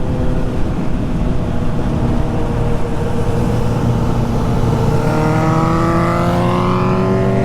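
Motorcycle engines running on the road, with the pitch of one rising steadily in the second half as it accelerates.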